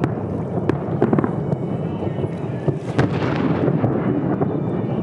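Fireworks display: a continuous rumble of shell bursts punctuated by several sharp bangs. The loudest bang comes about three seconds in, followed by a brief crackling hiss.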